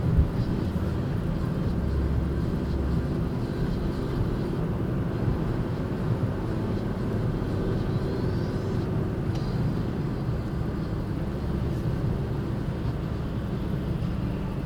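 Steady low rumble of a running vehicle, even in level throughout, with faint steady pitched lines in it.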